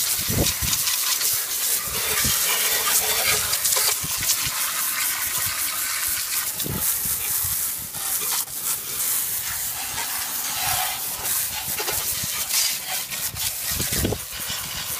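Water spraying onto a Honda push lawn mower, a steady hiss with a few light knocks.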